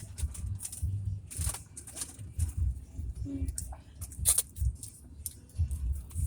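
Close-up eating sounds: irregular chewing thumps mixed with sharp crackling clicks.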